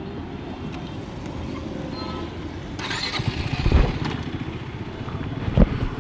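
Motorcycle engine running steadily on the move. A brief hiss comes about halfway through, and short low thumps follow a little later and near the end.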